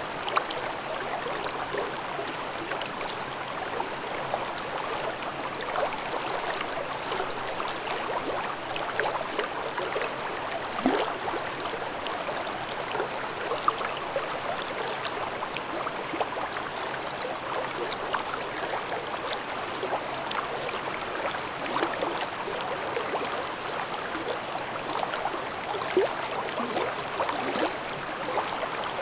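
Forest stream in a gorge babbling over rocks: a steady rush of water dotted with frequent small splashes and gurgles.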